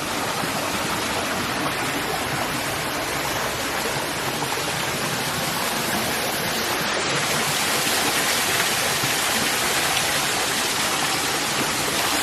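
Waterfall water rushing steadily, an even hiss of falling water that grows a little louder in the second half.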